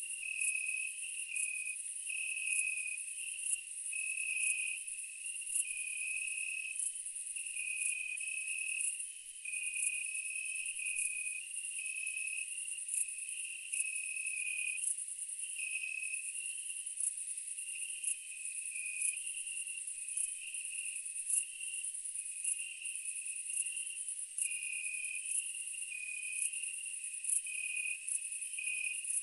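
Chorus of chirping insects: a steady high-pitched trill with regular ticks, layered over a lower pulsing chirp that steps back and forth between two pitches.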